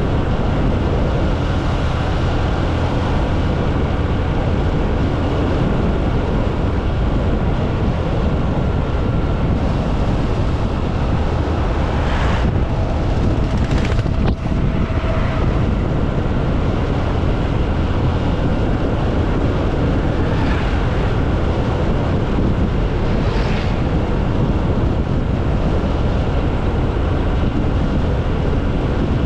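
Steady, loud rush of wind noise on the microphone, with a few brief sharper sounds over it about twelve and fourteen seconds in.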